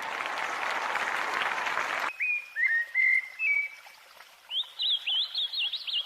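Small songbird chirping and twittering: a few short chirps, then a quick run of high trilled notes. It is preceded by about two seconds of rushing noise that cuts off suddenly.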